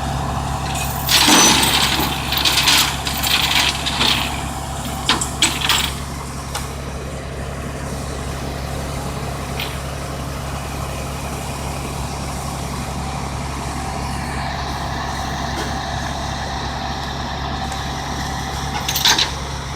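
Heavy truck engine idling with a steady low hum, with a run of short, harsh noise bursts over the first several seconds and again just before the end.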